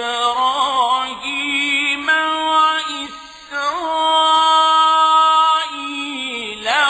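A male reciter's voice chanting the Quran in slow, melodic tajweed style. It holds long sustained notes with wavering ornaments and pitch turns, and breathes briefly about halfway through.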